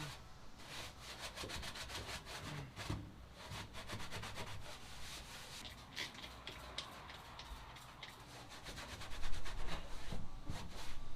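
Scrubbing the cab interior with water and degreaser to loosen caked dust and grime, in quick repeated rubbing strokes that get louder near the end.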